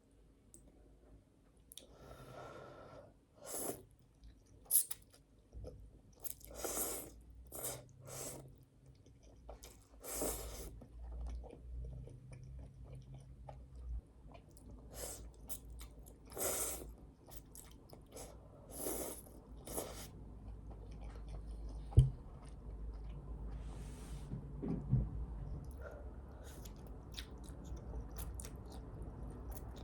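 A person chewing and crunching food close to the microphone, in irregular bites and chews, with one sharp tap about two-thirds of the way through.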